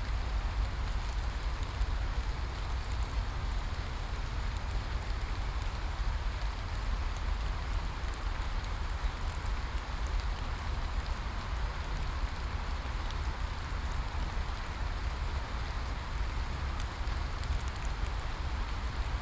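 Steady rain falling: an even hiss with scattered sharp drop ticks and a constant low rumble underneath.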